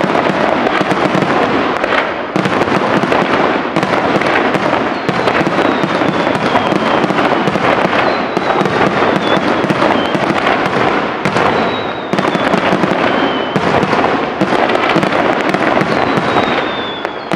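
Loud aerial fireworks display: a dense, continuous barrage of shell bursts and crackling, with a high whistle falling slowly in pitch several times.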